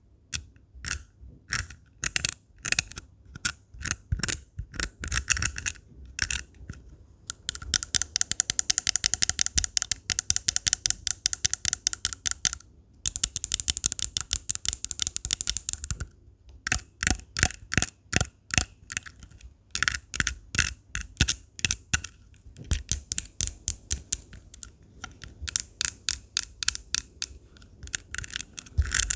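Rhinestone gems being scratched for ASMR: short crisp scratchy strokes in irregular groups, with two stretches of very rapid, continuous scratching around the middle.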